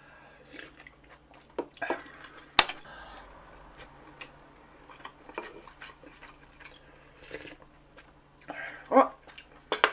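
Eating at a hot pot: scattered clicks and clinks of utensils against the pot and bowls, the sharpest about two and a half seconds in, with light liquid sounds from the broth.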